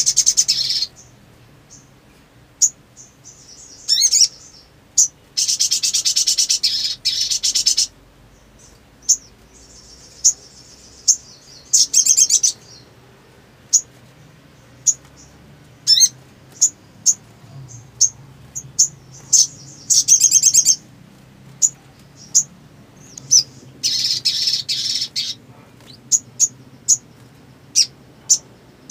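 Sunbird singing: sharp high chirps repeated at irregular intervals, broken several times by loud, rapid trilling runs, the longest about two seconds.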